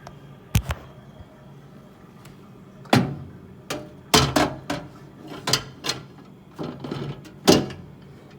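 Irregular sharp knocks and clatters of objects being handled and set down, about ten of them, most between three and eight seconds in, over a low steady hum.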